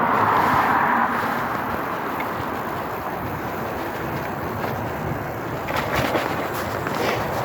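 Steady rushing road-traffic noise heard while riding along a road, a vehicle going by and fading away in the first second.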